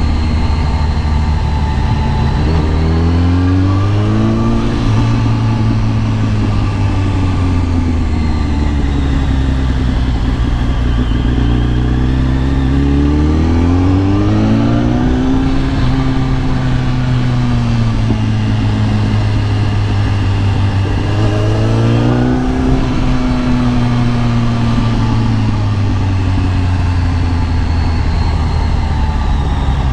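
Kawasaki ZX-10R inline-four engine pulling as the bike is ridden. It revs up three times, about 3, 13 and 21 seconds in, and its pitch eases down slowly between the pulls.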